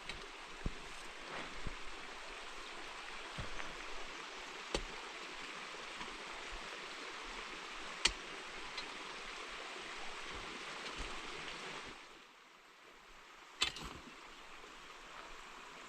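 Water running steadily in a hiss, then stopping about twelve seconds in, with a few sharp knocks along the way.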